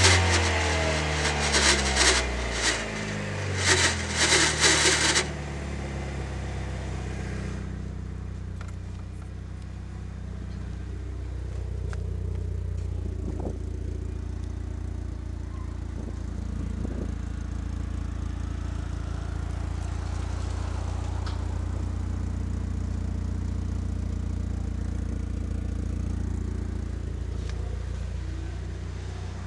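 DSM Mitsubishi Eclipse engine coming down from a rev, with a loud noise coming and going over it for about the first five seconds. After that it idles steadily. The car is said to make a strange noise.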